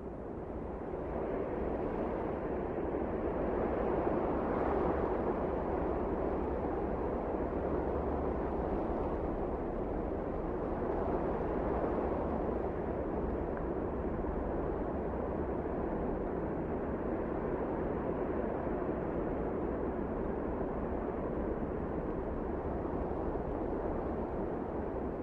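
Wind blowing steadily as a low, even rushing noise, swelling over the first couple of seconds and holding, as in a snowstorm.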